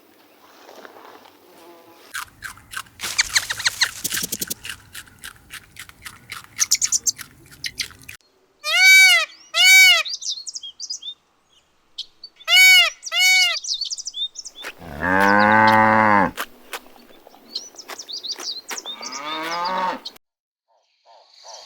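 A series of animal calls: quick chirps and clicks at first, then two pairs of short arched calls, then one longer, lower call about two-thirds of the way through, and a falling call near the end.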